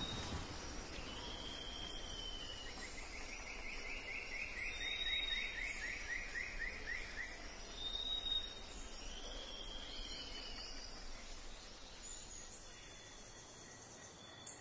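Pre-dawn tropical forest ambience with several animals calling. A short high note repeats about every three seconds, a few arched chirps sound, and a long series of rapid pulses slowly falls in pitch through the first half.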